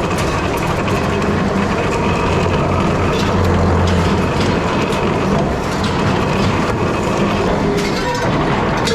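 Loud, steady workshop machinery noise with a low hum and scattered metallic clicks and clatters.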